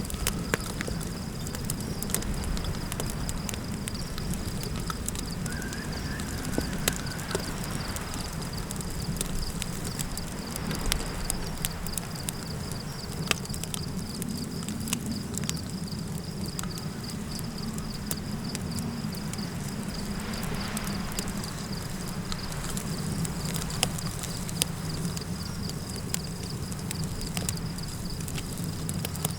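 Campfire crackling, with scattered sharp pops and snaps over a steady low rumble of wind.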